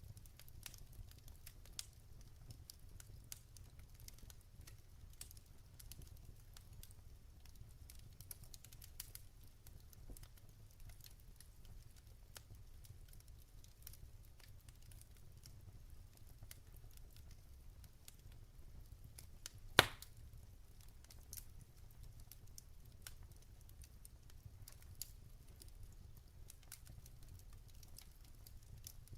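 Burning logs crackling in a fireplace: scattered small crackles over a low steady rumble, with one sharp, much louder pop about two-thirds of the way through.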